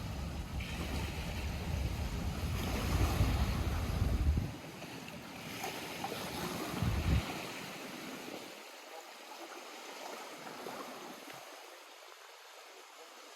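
Lake water lapping and washing at the shore, with a low wind rumble on the microphone that drops away about four and a half seconds in, briefly returns near seven seconds, and then leaves a softer, thinner wash of water.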